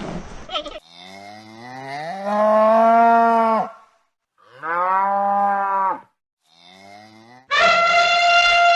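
Cow mooing in several separate calls: a long moo rising in pitch, a shorter one, a faint brief one, then a loud moo starting near the end.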